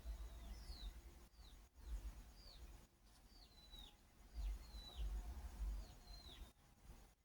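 Chicks peeping: a string of short, high peeps that fall in pitch, a little more than one a second, over a low rumble.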